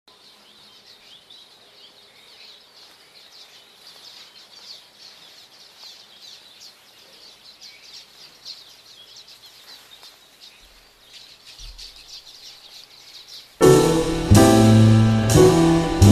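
Faint birds chirping over a quiet background hiss. Near the end the music comes in suddenly and loud, with piano or keyboard chords over a heavy bass line.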